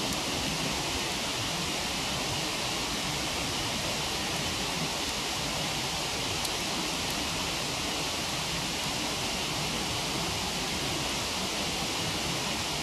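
Steady, even rush of a waterfall, with a couple of faint crackles from a wood campfire about halfway through.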